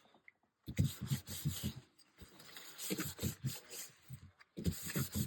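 Quick back-and-forth rubbing of a damp paper towel wiping sanding dust off a roughened plastic-coated journal cover, in three runs of strokes with short pauses between.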